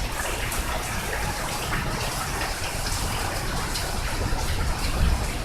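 Rain falling steadily, with water splashing and running.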